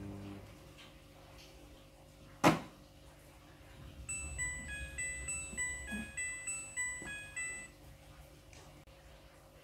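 Midea front-loading washing machine playing its electronic beep tune, a melody of short stepped tones lasting about three and a half seconds, the signal that the wash cycle has finished. A single sharp click comes about two seconds before the tune, and a steady hum stops just after the start.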